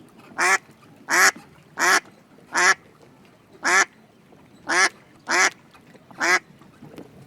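A duck quacking repeatedly: eight short, loud quacks, about one every second, with a slightly longer pause midway.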